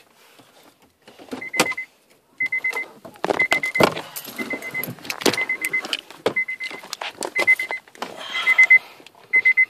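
A car's electronic warning chime beeping in short bursts of rapid beeps, about once a second, with knocks and rustling from handling inside the cabin.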